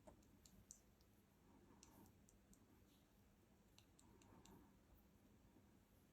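Near silence with faint, sharp clicks in small clusters, about three groups of two to four ticks.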